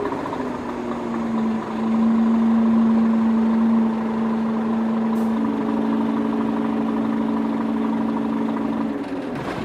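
The small motor of a handmade miniature vehicle runs with a steady hum. The hum grows louder from about two to four seconds in, and a second, slightly higher tone joins it about halfway through.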